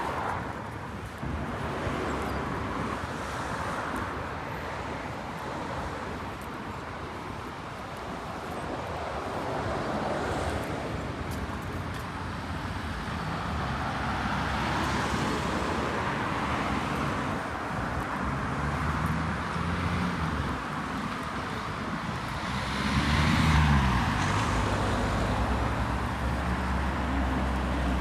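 City street traffic, with cars passing one after another. Late on, a vehicle's engine rises in pitch as it accelerates, and this is the loudest moment.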